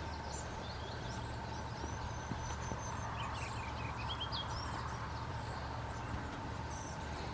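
Small songbirds chirping and trilling in short phrases, busiest in the first half, over a steady low background rumble.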